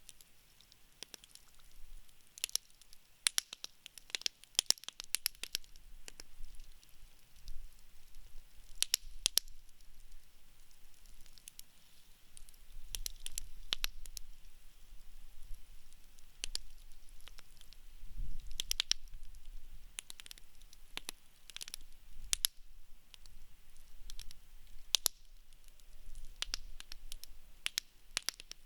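Wood burning in a campfire pit, crackling with irregular sharp pops and snaps, some coming in quick clusters, over a faint low rumble.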